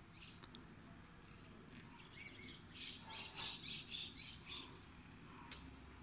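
Birds chirping: a few scattered calls, then a quick run of about eight bright notes starting about three seconds in, over a faint low background rumble.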